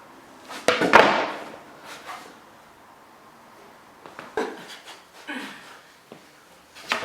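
Wooden knocks and thuds of a skateboard deck without trucks being flipped and landing on carpet, the loudest about a second in, followed by a few softer knocks.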